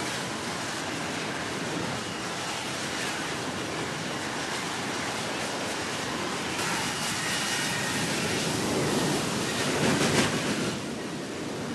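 Steady wind and sea noise, over which a jet aircraft's engine noise with a faint high whine swells from about halfway through, peaks near the end and then drops away.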